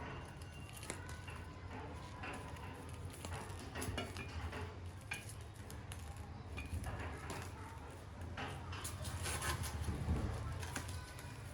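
Scattered light metal clinks and knocks over a steady low machine hum.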